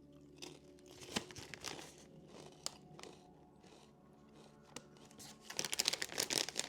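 Crinkling and rustling of a potato chip bag, with a few scattered crackles at first, then turning into a dense, louder crackling run near the end.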